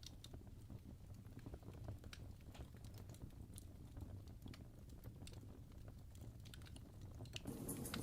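Campfire crackling: scattered small pops and snaps over a low steady rumble, turning louder and busier about seven and a half seconds in.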